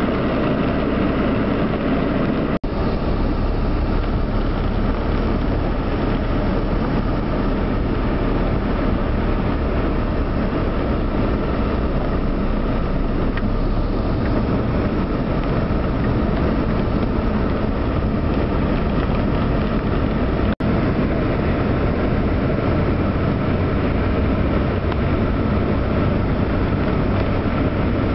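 Heavy rain falling on a moving car, with its tyres running through water on a flooded street, heard from inside the cabin. It is a steady, loud rushing noise over a low engine hum, and it cuts out for an instant twice.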